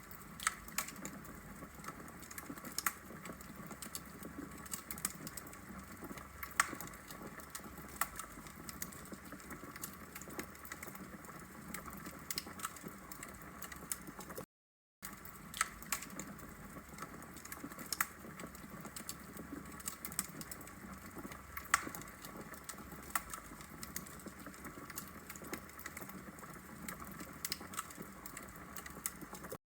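Wood logs burning in a fireplace, crackling with irregular sharp pops and snaps over a soft steady hiss of the flames. The sound cuts out completely for about half a second halfway through, then resumes.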